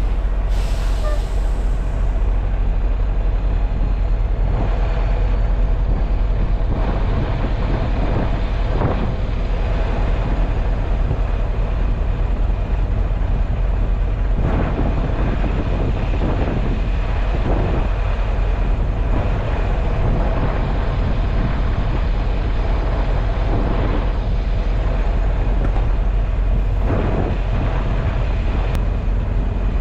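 Diesel semi truck running steadily, a deep continuous engine drone heard with cab and road noise.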